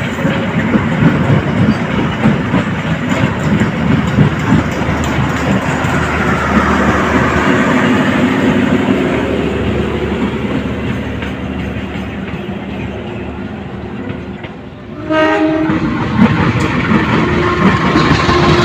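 Train running with rumble and rail clatter. About fifteen seconds in, its horn sounds suddenly and loudly.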